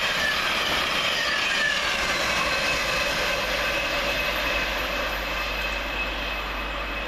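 Class 700 Thameslink electric multiple unit passing at speed: a steady rush of wheels on rails with a faint high whine from its traction equipment, easing off a little in the second half.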